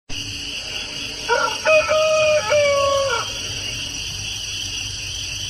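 A rooster crowing once, a cock-a-doodle-doo of about two seconds that ends on a slightly falling note, over a steady hiss.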